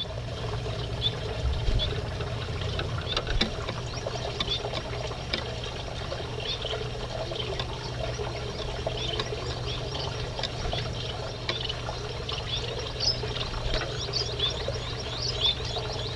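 Small aviary finches twittering in a dense run of short, high chirps, over a steady low rushing noise.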